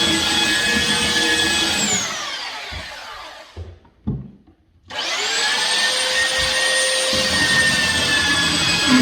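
A high-speed electric motor whining steadily. It is switched off about two seconds in and winds down, then switched back on about five seconds in and spins up to full speed.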